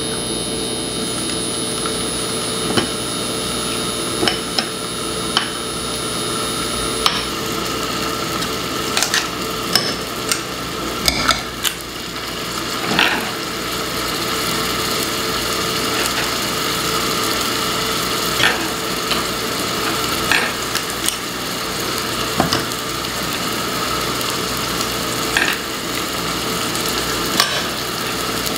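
Balls of raw chicken sausage mixture frying in sunflower oil in a pan, a steady sizzle. Scattered sharp clicks and taps come from the metal scoop as more portions are dropped in.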